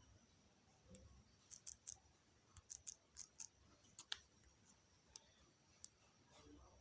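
Faint, irregular clicks and taps over near-silent room tone, typical of fingertips tapping a phone touchscreen.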